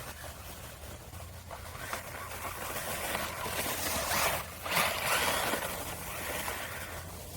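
Brushless RC drift car driving, with the rush of its motor and tyres swelling twice to a peak about halfway through as it passes close.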